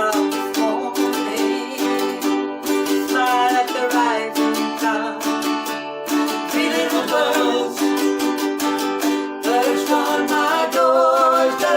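Ukulele strummed in a steady rhythm of chords, with a voice singing a melody over it from about three seconds in.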